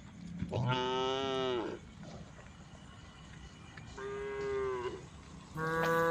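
Cows mooing: three long calls, each sliding down in pitch as it ends; the third starts about a second before the end and is still going.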